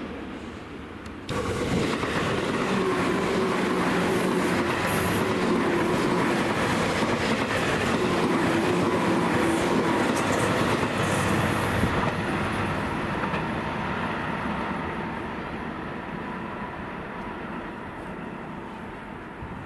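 Tobu 10030 series electric train running past, its wheels clicking over the rail joints, with a motor tone that slowly falls in pitch. The sound starts abruptly about a second in and fades away gradually over the second half.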